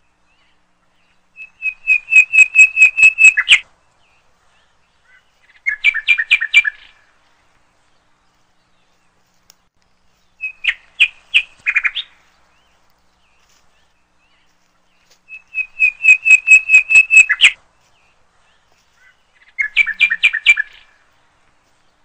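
A songbird singing five short phrases, each a quick run of repeated chirping notes lasting one to two seconds, with pauses of a few seconds between them.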